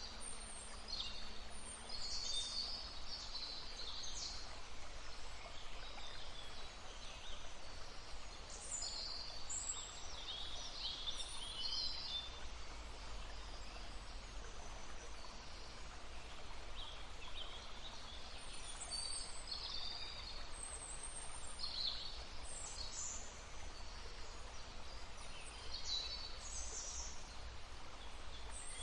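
Several songbirds singing and calling in short chirps and trills, one after another throughout, over the steady rush of a stream.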